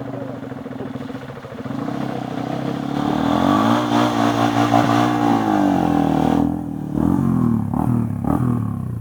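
Enduro dirt bike engine revving up under throttle, held high for a couple of seconds, then easing off and picking up again, with a few clattering knocks near the end.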